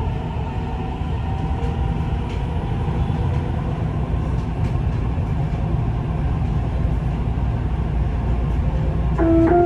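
Dubai Metro train running between stations, heard inside the carriage: a steady rumble with faint whining tones above it. A chime of a few steady tones starts near the end.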